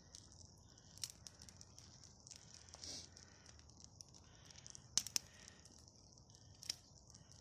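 A bonfire of damp wood burning poorly, with a few sharp pops and cracks: one about a second in, two close together about five seconds in, and one more near the end.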